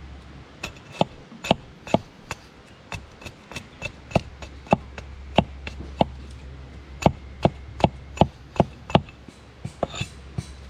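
Wood being struck again and again with a tool, sharp chopping knocks of uneven strength at about two to three a second, typical of roughing out a block of green wood for a kuksa.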